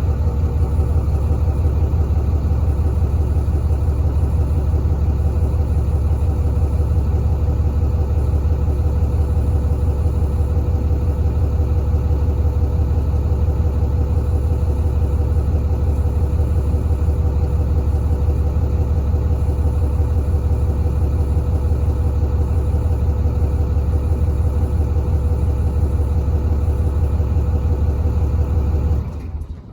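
2009 Dodge Ram 4500's Cummins inline-six turbodiesel idling steadily with a deep, even rumble, dying away just before the end.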